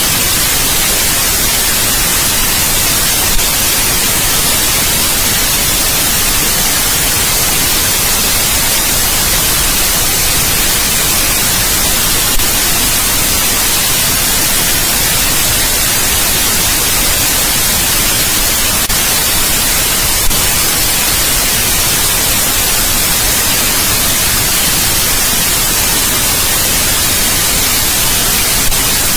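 Steady white noise: an even, hissing sound, strongest in the high treble, that never changes.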